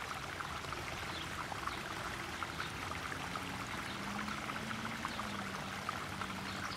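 Garden koi pond waterfall splashing and trickling steadily into the pond.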